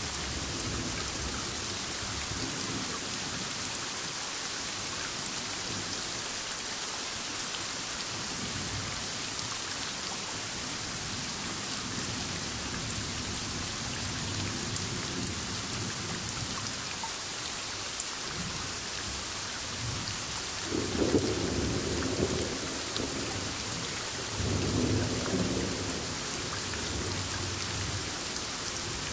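Heavy rain falling steadily on surfaces during a thunderstorm, with thunder rumbling low, loudest in two rolls about two-thirds of the way through and again near the end.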